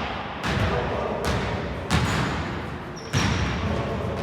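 Basketball bouncing on a sports hall floor: about four uneven bounces, each echoing in the hall.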